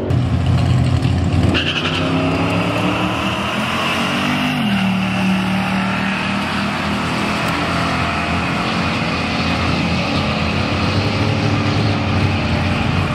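Cars launching off a drag strip's starting line and accelerating down the quarter mile. The engine pitch climbs, drops at a gear change about four and a half seconds in, then holds steadier.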